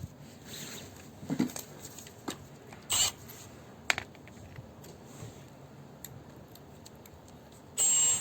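Hands handling tools and blower motor parts: scattered clicks, knocks and rustles, with one short, louder noisy burst near the end.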